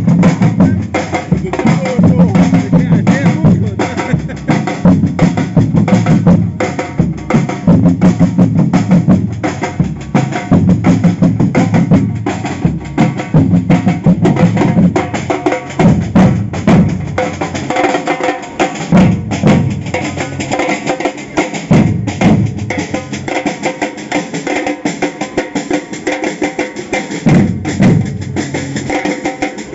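Samba percussion band playing a fast, driving rhythm on massed drums, deep bass drums under snare drums. The playing is dense for the first half, then thins out into a sparser, slightly quieter passage about halfway through.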